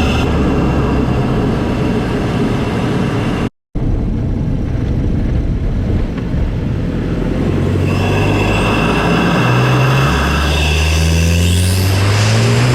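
MK7 Golf GTI's 2.0-litre turbocharged four-cylinder heard from inside the engine bay through an open CTS cold air intake while driving: loud intake noise under load. The sound cuts out briefly about three and a half seconds in. In the second half the engine pitch climbs as it accelerates, with a faint rising whistle of the turbo spooling.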